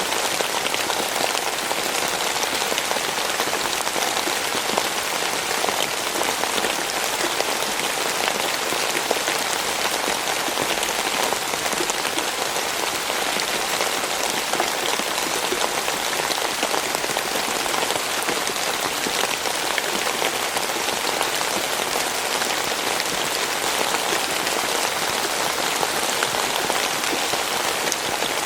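Steady rain falling, a dense even hiss with the patter of many small drops hitting a surface.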